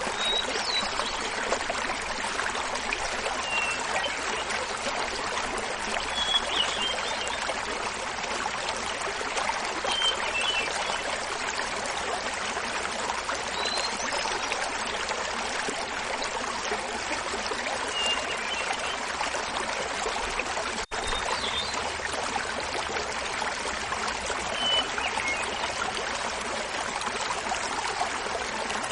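Steady splashing of a small mountain waterfall, with a hermit thrush singing short, high phrases over it every few seconds.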